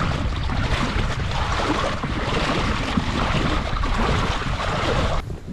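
Steady rushing and splashing of river water around a WaterMaster inflatable raft being launched, mixed with wind on the microphone; it cuts off abruptly near the end.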